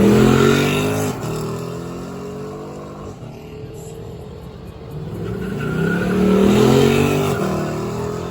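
Car engine revving up hard twice: the pitch climbs and cuts off sharply about a second in, then climbs again about six to seven seconds in before falling away.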